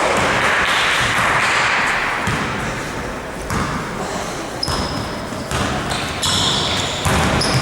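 Basketball game in a gym: a ball bouncing on the court, with a couple of short sneaker squeaks about two-thirds of the way in, over steady hall noise.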